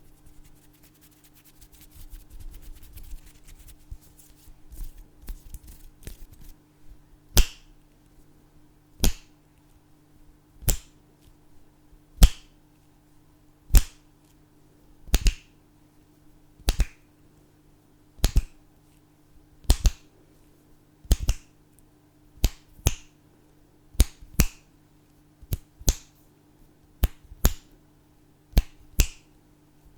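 Fingers snapping close to the microphone, sharp single snaps at an even pace of about one every second and a half, some of them as quick double snaps. The first few seconds hold only soft rustling before the snapping begins.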